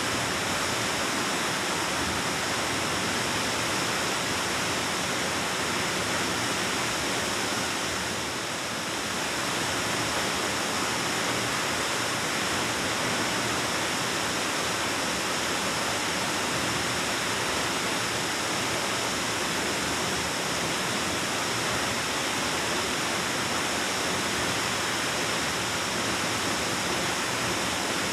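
Waterfall rushing steadily, an even roar of falling water echoing in a rock cave, with a slight dip in loudness about eight seconds in.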